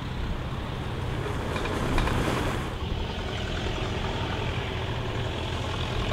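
Engines of Model T Ford speedsters running as the cars drive past: one goes by close, with a louder rush about two seconds in, then more speedsters approach. Each has the Model T's four-cylinder engine.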